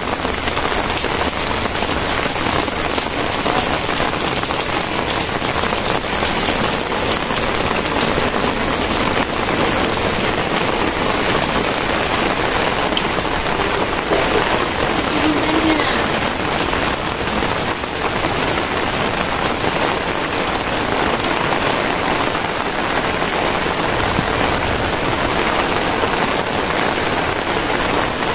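Very heavy rain pouring steadily, a dense, even hiss of falling water.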